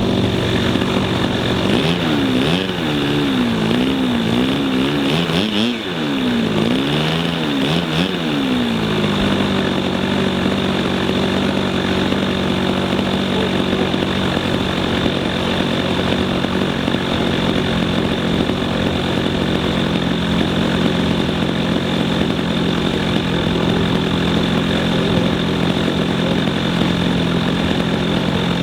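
Large radio-controlled model airplane engine running continuously. Its pitch swings up and down several times for a few seconds about two seconds in, then settles to a steady pitch.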